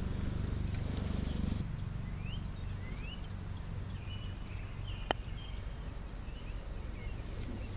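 Birds chirping and whistling in short rising calls over a steady low outdoor rumble, with one sharp click about five seconds in.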